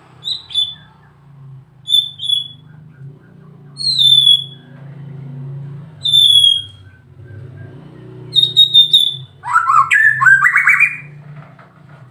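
White-rumped shama (murai batu) singing: clear, high, down-slurred whistles about every two seconds, then a quick stuttering run of notes and a burst of varied, lower, rapidly changing phrases near the end.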